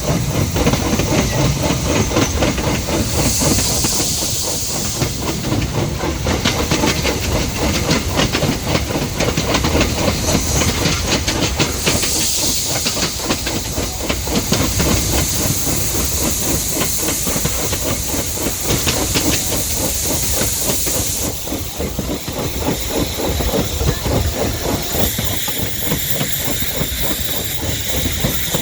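Steam train running: a fast rhythmic clatter goes on under hissing steam, and the hiss swells louder three times.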